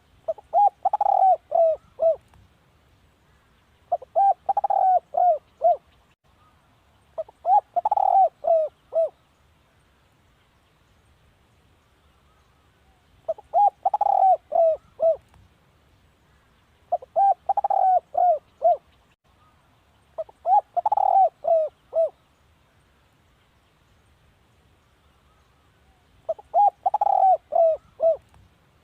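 Spotted dove cooing: seven short phrases of about five quick coos each, repeated every few seconds.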